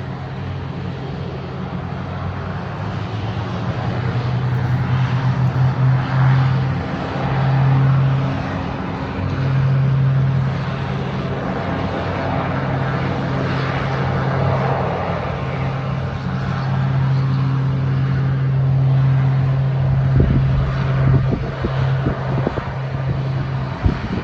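Aircraft engines droning steadily during a takeoff, the hum swelling and fading in level, with a few low buffets near the end.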